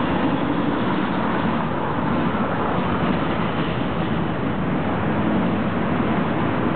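A train's cars rolling past directly below, a steady, even rolling noise of steel wheels on the rails.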